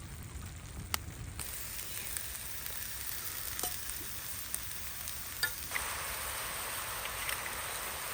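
Food sizzling and crackling in a hot pan; the sizzle starts about a second in and grows louder about six seconds in.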